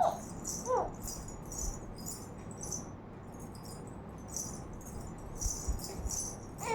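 A rattle shaken in short hissy bursts, about two a second, with one brief high squeak just under a second in.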